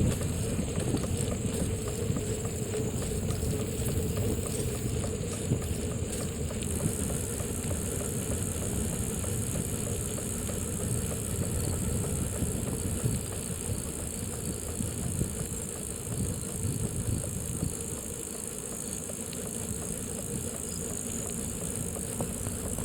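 Steady noise of riding a bicycle with a handheld phone: wind on the microphone and the bike rattling over a bumpy surface.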